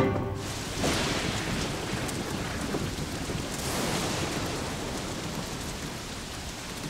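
Heavy rain pouring down steadily, swelling briefly about a second in and again at about four seconds.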